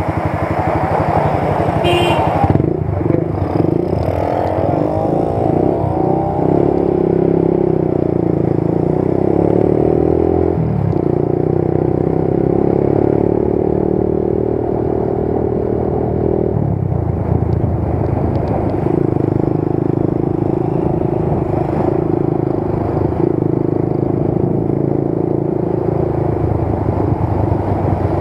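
Motorcycle engine running while riding. Its pitch rises a few seconds in as it picks up speed, then holds fairly steady, with a couple of changes in engine note.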